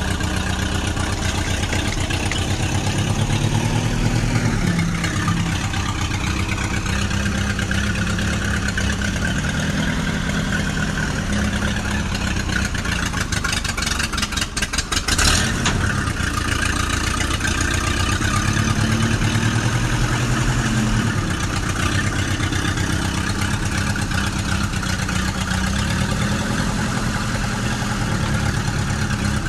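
Tractor engine running steadily, its pitch rising and falling several times as it revs up and settles back, with a short run of rapid clicks about halfway through.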